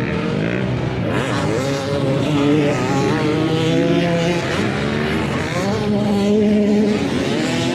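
Several motocross dirt bikes running at once, their engines revving up and down as the riders work the throttles.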